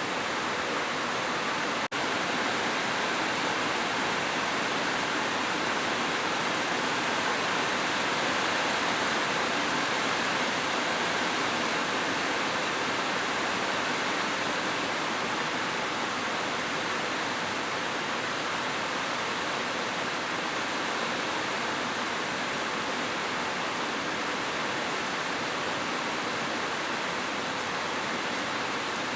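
Heavy rain falling as a steady, even hiss, with a brief dropout about two seconds in.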